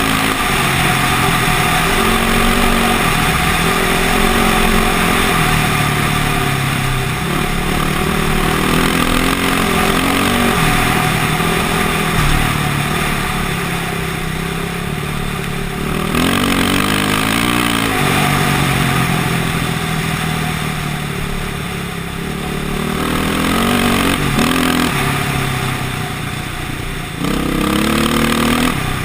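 KTM motocross bike's engine under way, its pitch rising and falling over and over as the throttle is opened and closed, with several sharp climbs in revs.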